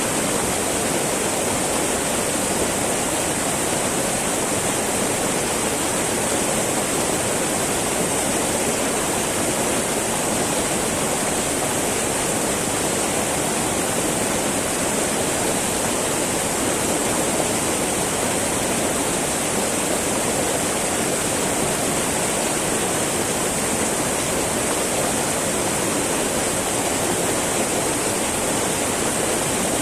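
Small mountain river babbling over rocks: steady, even rush of flowing water.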